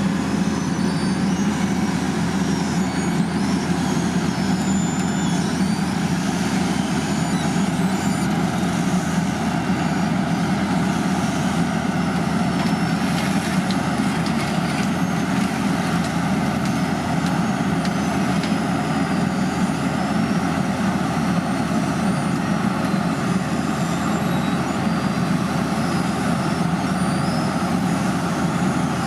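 Heavy road-construction machinery at an asphalt paving site, its diesel engines running steadily with a continuous low rumble.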